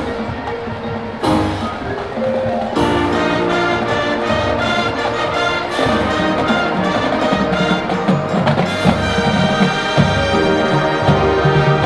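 High school marching band playing a rock arrangement on brass and drumline, with cymbal crashes near the start and the full band coming in about three seconds in.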